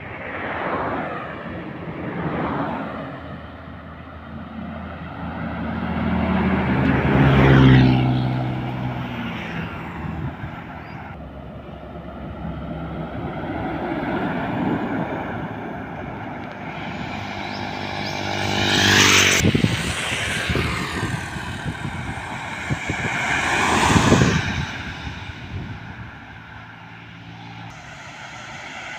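Trucks driving past on a road one after another, each engine sound swelling and then fading. The loudest passes come about a quarter of the way in, about two-thirds in, and shortly after that; the first has an engine note that drops in pitch as it goes by.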